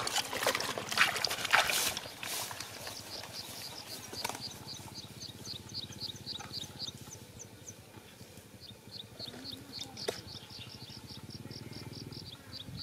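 Bare feet splash and squelch through shallow muddy water for the first two seconds. After that a bird calls a rapid run of short, high, evenly spaced chirps, about four a second. It pauses briefly near the eight-second mark and then starts again.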